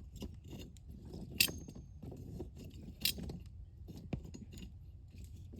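Wood campfire burning and crackling, with scattered small clicks and two loud, sharp pops about a second and a half and three seconds in, and a smaller snap a second later.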